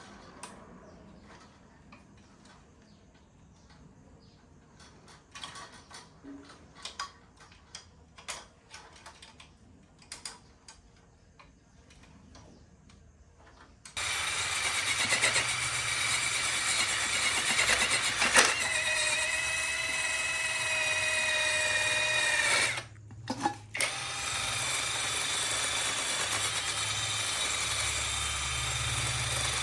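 Scattered light taps and clicks of tools being handled. About halfway through, a handheld electric power tool starts and runs with a high whine that sags slightly under load, cuts out for about a second near three-quarters through, then runs on.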